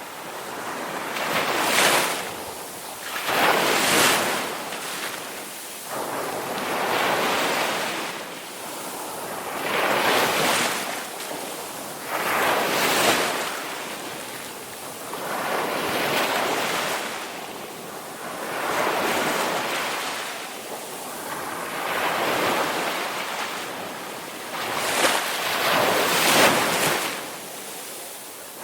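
Ocean waves breaking and washing in, one after another, each swelling to a hiss and falling away every two to three seconds.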